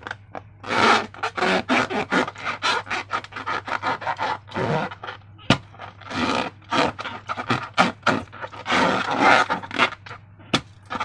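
Slime and transparent latex balloons being squeezed and worked by hand: a quick run of short scraping, rubbing strokes, about two or three a second, with a sharp click about five and a half seconds in and another near the end.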